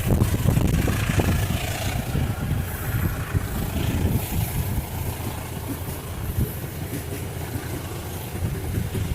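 Low vehicle engine rumble at a railway crossing, with a few knocks in the first second, slowly fading.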